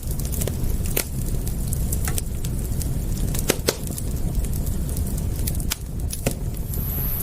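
Wood fire crackling: a steady low rumble of burning with sharp, irregular pops and snaps. Near the end a thin, high, steady tone comes in.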